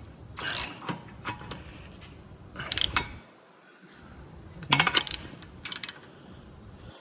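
A ratchet and metal hand tools clicking and clanking in short bursts with brief high metallic rings, as the wheel hub nut is tightened by hand.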